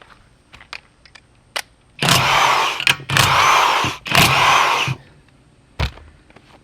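Power tool, most like a cordless impact wrench, run in three bursts of about a second each on a wheel's lug nuts, with a few light metal clicks before and a single knock after.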